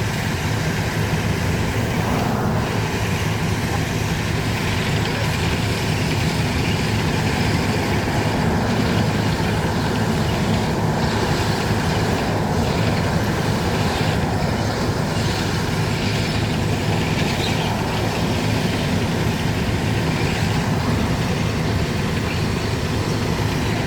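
Heavy engine of a rail maintenance vehicle running steadily as the vehicle crawls along, a continuous low drone with a noisy wash of machine and rolling sound over it.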